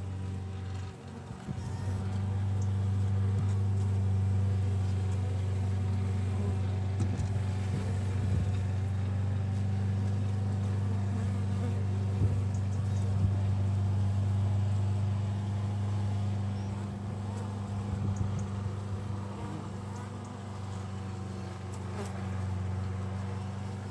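Honeybees from an open hive buzzing in a steady, low hum, with a short dip about a second in.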